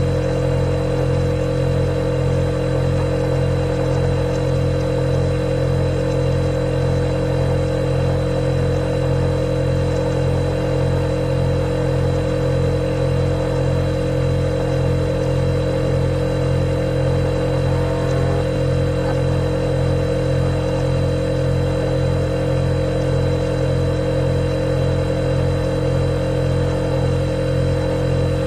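Refrigerator compressor running with a steady, even hum made of fixed low tones and a higher whine.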